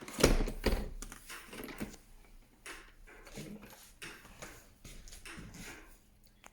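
Protective film or tape being peeled and torn off the plastic body of a robot vacuum: irregular crackles and taps, the loudest right at the start.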